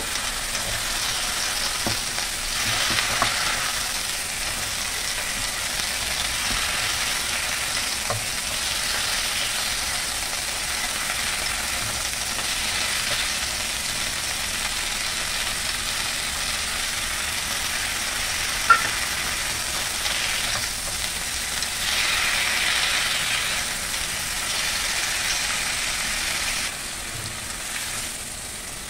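Kailan (Chinese broccoli) stir-frying in a pan with a steady sizzle that swells a couple of times, with a few clicks of a utensil against the pan. The sizzle drops off near the end.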